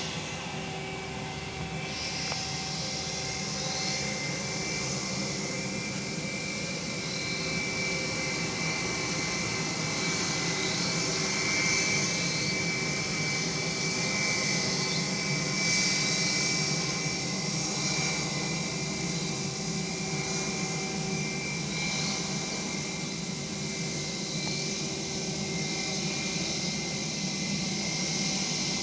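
Airplane flying over: a steady engine noise that grows somewhat louder around the middle.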